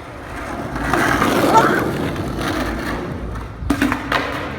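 Skateboard wheels rolling over concrete, building up and then easing off. About a second before the end come two sharp clacks of the board, a pop or a landing.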